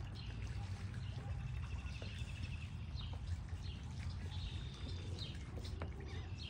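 Small birds chirping outdoors: scattered short, high chirps and a brief trill about two seconds in, over a steady low rumble.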